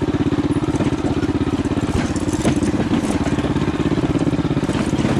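Coleman CT200U mini bike's small single-cylinder four-stroke engine running steadily with a fast, even beat of firing pulses.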